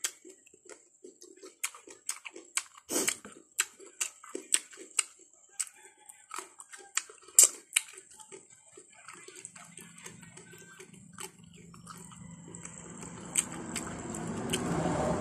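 Close-up mouth sounds of someone eating soft ripe papaya: wet chewing and lip-smacking clicks, several a second. From about ten seconds in, a rumbling noise with a low steady hum swells up and is loudest near the end.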